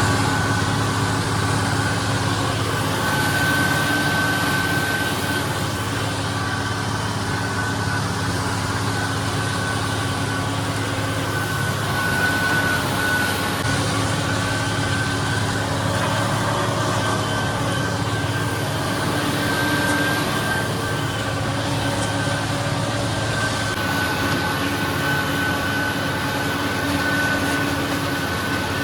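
Farm tractor running steadily, with a steady high whine over the low engine drone.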